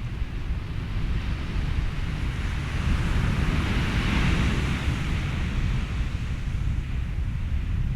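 Ocean waves with wind and a white-noise bed: a steady low rumble, with one wave washing in that swells to a peak about halfway through and then recedes.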